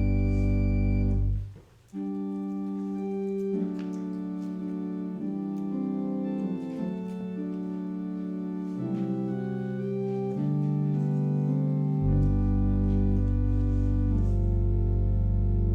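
Church organ playing a slow prelude in long, held chords. A short break comes about a second and a half in; deep bass pedal notes drop out there and come back about twelve seconds in.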